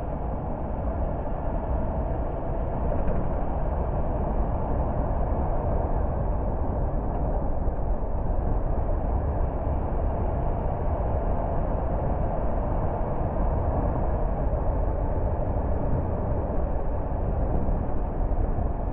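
Steady road noise of a car driving at an even pace: engine and tyre rumble with no change in pitch or level.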